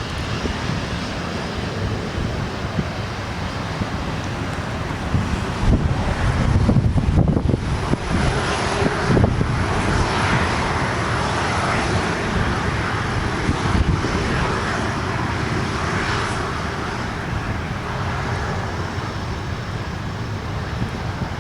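Jet airliner's engines running as the aircraft passes, loudest about a third of the way in, with a thin high whine for several seconds through the middle. Wind buffets the microphone underneath.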